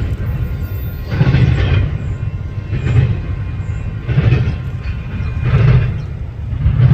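Freight train cars rolling past, with a rhythmic clatter of wheels about every second and a half as each car goes by.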